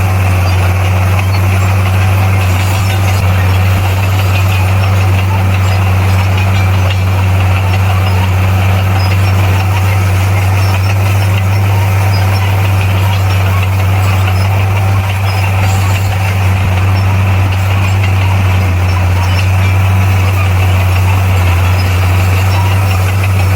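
Heavy diesel engine of earthmoving equipment running at a steady speed, a constant deep drone.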